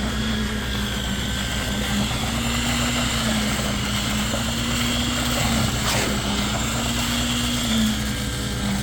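Machinery at a concrete slab pour running steadily: a continuous droning hum that wavers slightly in pitch over a low rumble, with a faint click about six seconds in.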